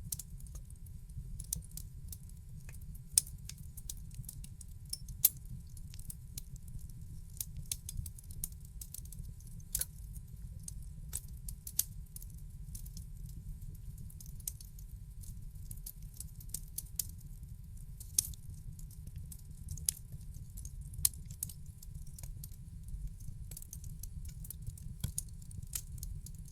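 Wood fire crackling in a fireplace: irregular sharp snaps and pops, several louder cracks among them, over a steady low rumble of the burning.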